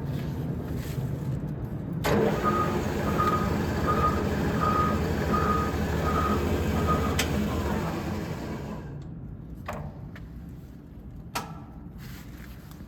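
Mazak Jr engine lathe running with a steady hum that grows louder about two seconds in, then winds down to a stop around eight to nine seconds. Seven evenly spaced electronic beeps, about one every 0.7 s, sound over the loud part. A few clicks follow near the end.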